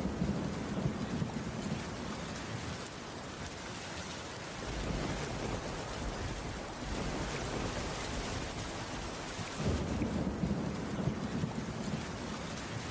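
Steady rain falling on a wooden cabin roof, with a low rumble near the start and another about ten seconds in.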